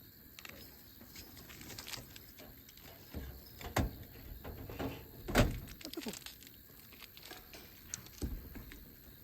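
Objects being handled: a scattered run of clicks, knocks and rattles, with the loudest thump about five seconds in.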